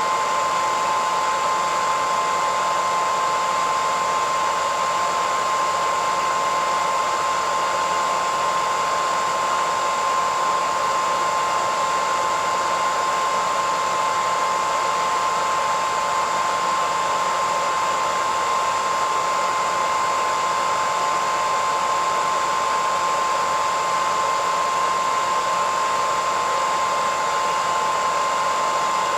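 Hairdryer running continuously at a steady speed: an even airy rush with a constant high whine from the motor.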